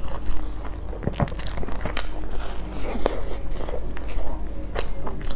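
Chewing with wet mouth clicks and smacks, a few sharp ones standing out at uneven intervals about a second apart.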